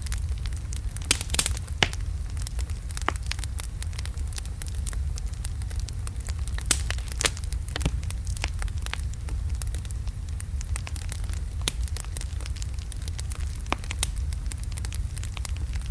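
Wood fire of large logs burning, with a steady low rumble and irregular crackles and sharp pops from the burning wood.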